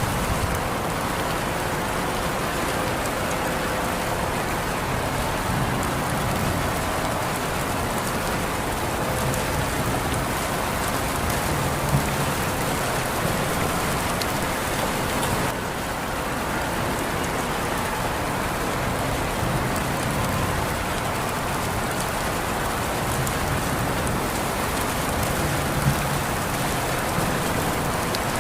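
Steady rain falling on a surface, a constant even hiss, with two louder single drops or splashes, one about twelve seconds in and one near the end.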